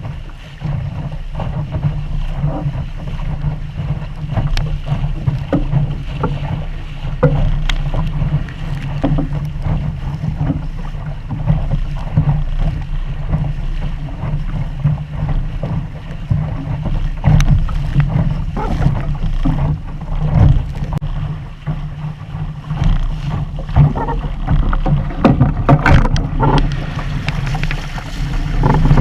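Wind buffeting the microphone of a GoPro on a Sunfish sailing dinghy under way, a steady low rumble, with water slapping and splashing against the hull in frequent short knocks.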